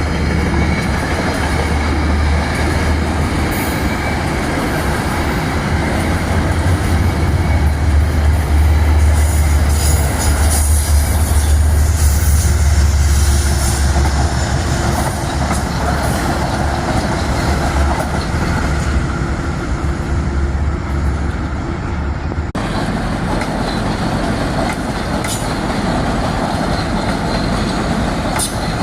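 Metro-North commuter train running past on the tracks: a loud, steady low rumble of the train and its wheels on the rails, with some higher wheel noise. The sound changes abruptly about three-quarters of the way through.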